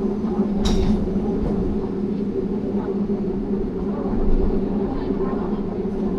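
Train running along the track: a steady rumble with a low, even hum, and a short sharp rush of noise a little under a second in.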